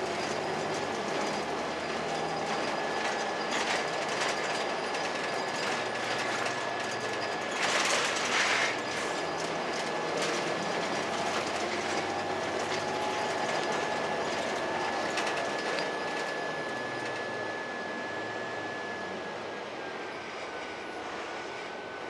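2002 Blue Bird CS transit bus under way, its Cummins ISC diesel and Allison B400R automatic running with body rattles and clicks and a steady high whine. A brief hiss comes about eight seconds in, and near the end the whine drops a little in pitch and the noise gets softer as the bus slows.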